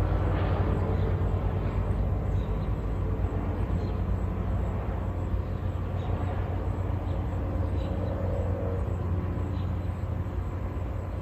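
Cessna 172's single piston engine and propeller droning steadily as the plane flies past, slowly fading as it moves away.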